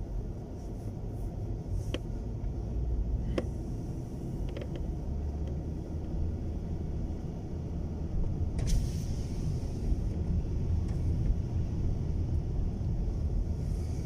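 Steady low rumble of a car being driven in strong wind, heard from inside the cabin. A few faint clicks come in the first five seconds, and there is a brief hiss about nine seconds in.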